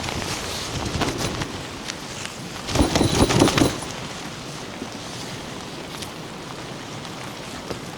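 Steady rain patter, with a brief burst of close crackling handling noise about three seconds in.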